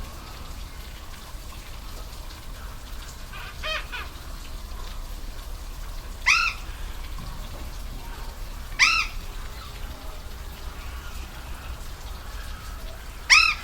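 A bird gives three loud, short calls a few seconds apart, with a fainter double call before them. Under them runs the steady rush of a waterfall.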